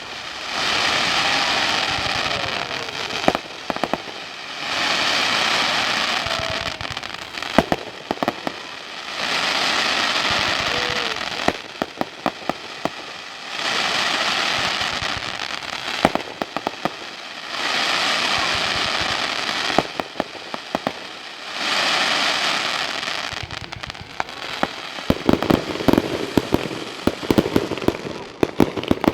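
Fireworks going off: six hissing bursts of about three seconds each, evenly spaced, with scattered sharp pops between them, then from about 25 seconds in a dense run of rapid crackling pops.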